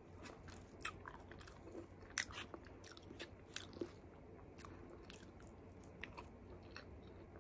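Faint close-up eating sounds of a person chewing a mouthful of rice and string beans: scattered soft mouth clicks and smacks.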